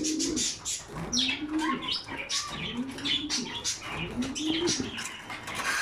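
Racing pigeons cooing, several rising-and-falling coos about every second and a half, with short high chirps over them.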